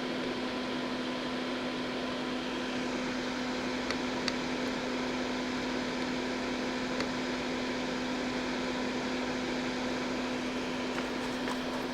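Steady electric hum with one constant low tone, like a small motor or fan running, with a few faint ticks.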